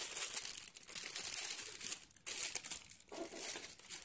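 Clear plastic packaging bags crinkling as they are handled, in three stretches with two brief pauses.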